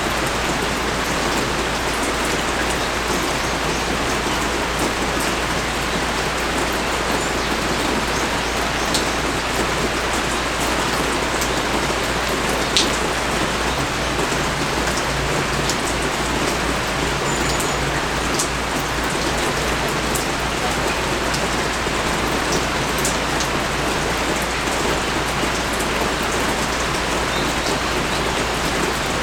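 Steady rain falling, with individual drops ticking now and then and one sharper drop about 13 seconds in.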